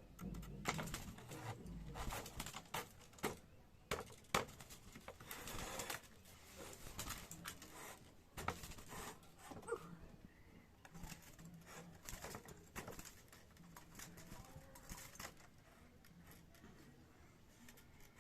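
Clicks, knocks and rattles of a bird cage being handled as a part is fitted back into it, with a bird cooing low in the background.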